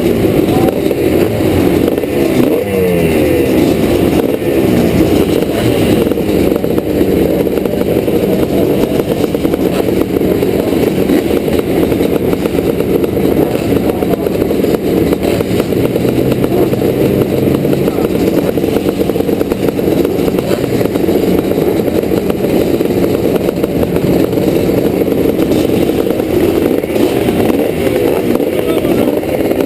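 Several vintage 500cc motocross bikes' engines revving hard together, their pitches rising and falling across one another, among them a 1986 Yamaha YZ490 two-stroke.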